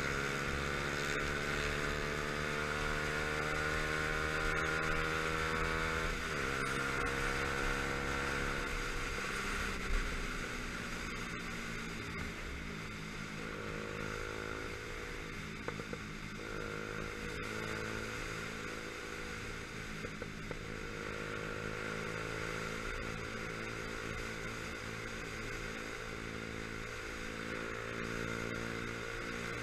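Motorcycle engine running under way, heard from the rider's helmet with wind noise over it. The engine note drops sharply about six seconds in, as at a gear change, then eases and wavers before climbing again near the middle.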